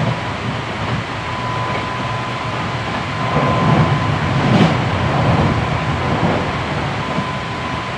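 Hankyu 7300 series train heard from inside the car at speed: a steady rolling rumble with a thin, steady high whine. About three seconds in the rumble swells louder for a few seconds, with one sharp click in the middle of the swell.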